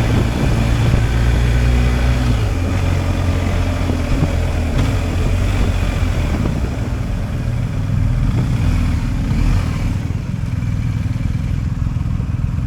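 BMW R 1250 GS Adventure's boxer twin engine running under way, with wind and road hiss. The engine note drops about two seconds in, and the hiss eases near the end.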